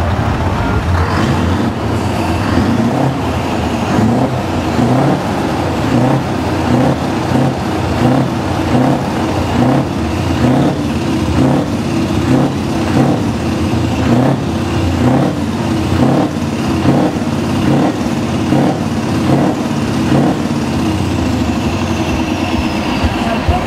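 Heavy Scania truck engines running loudly: a steady low rumble with a regular pulse a little faster than once a second.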